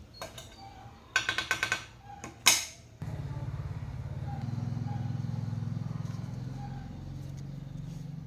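A quick run of light clicks and a sharp knock, then a low steady motor-like hum that starts suddenly about three seconds in and swells a little before settling.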